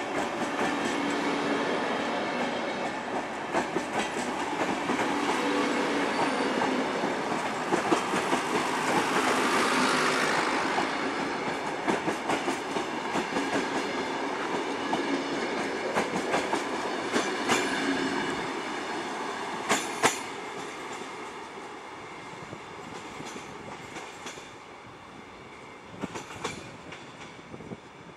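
VR InterCity passenger coaches rolling past as the train pulls out, the wheels clicking over rail joints. The sound fades over the last third as the tail of the train moves away, with a few sharp clicks still heard.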